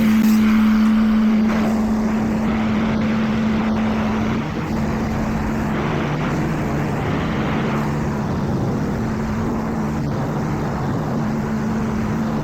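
Automatic car wash machinery running: a loud, steady droning hum over a rushing noise, with a second, deeper hum joining partway through. It cuts off suddenly at the end.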